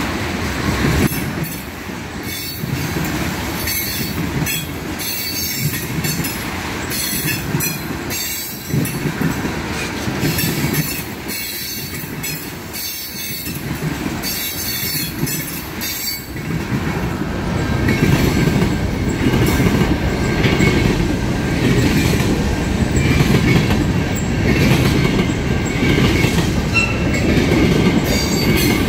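A train's cars rolling past, wheels clacking in a steady rhythm over the rail joints. After about halfway the rumble thickens and a faint wheel squeal comes in.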